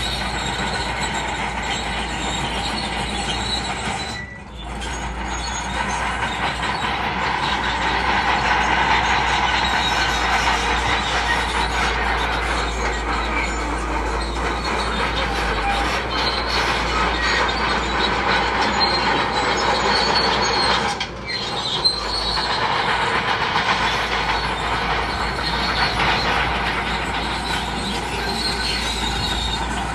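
Crawler bulldozer working, its engine running under load and its steel tracks squealing and clanking. The sound dips briefly twice, about four seconds in and again about twenty-one seconds in.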